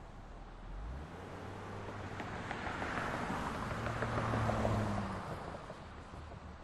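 City street traffic: a motor vehicle passes, its engine hum and tyre noise swelling to a peak about four to five seconds in and then fading, over a steady traffic background.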